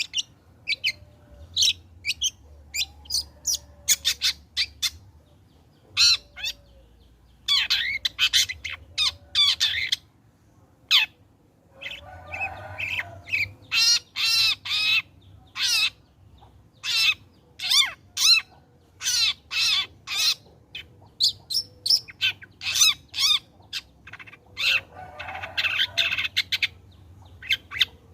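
Long-tailed shrike singing a fast, varied song of short, sharp, high notes, broken twice by longer harsh, rasping phrases.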